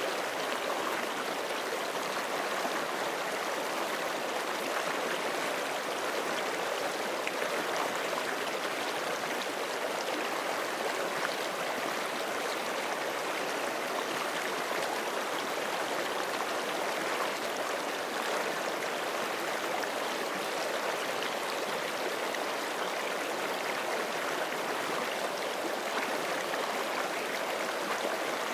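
A forest creek flowing steadily over rocks: a continuous rushing and babbling of running water.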